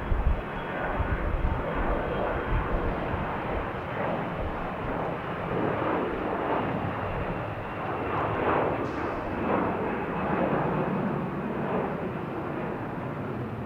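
A fixed-wing airliner's engines passing, heard as a steady broad rush of noise with a faint high whine held above it. Low wind thumps hit the microphone in the first second.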